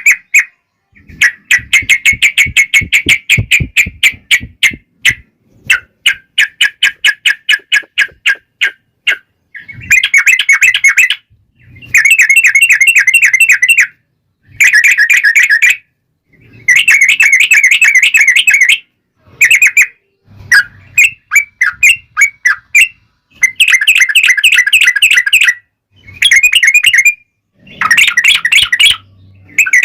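Yellow-vented bulbul (trucukan) giving long, rapid chattering trills, dense runs of quick repeated notes in loud bursts of a second or two with short pauses between.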